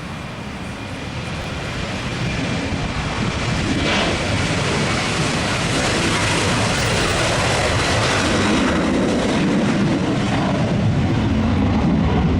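Airliner's engines growing steadily louder as the aircraft comes nearer, a broad rushing noise with a deep rumble that strengthens toward the end.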